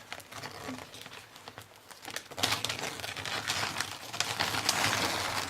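Thin plastic gloves from a hair dye kit crinkling as they are pulled out and unfolded: a dense crackle of small clicks that gets louder about two seconds in.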